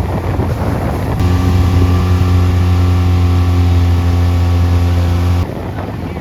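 Small motorboat's engine running at a steady speed: a low, even drone that cuts in suddenly about a second in and cuts off suddenly near the end, with wind buffeting the microphone.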